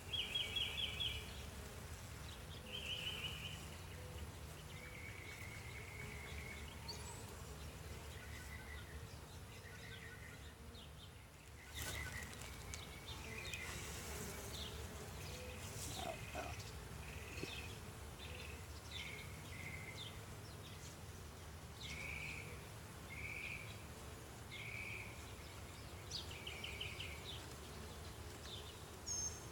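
Honeybees humming steadily around an open hive, with a bird's short chirps and trills repeating over it and a single light knock about twelve seconds in.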